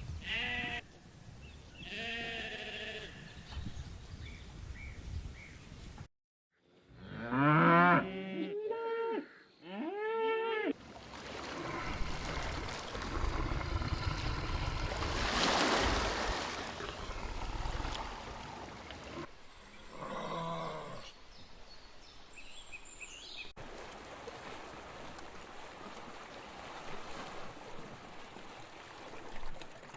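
Farm animals calling: a few loud, drawn-out calls that rise then fall in pitch, with fainter calls before and after, over noisy outdoor background in abruptly cut segments.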